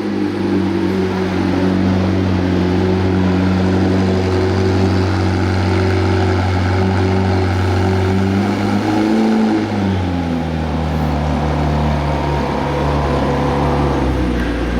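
McLaren 765LT's 4.0-litre twin-turbo V8 idling steadily, then settling to a lower, deeper idle about ten seconds in.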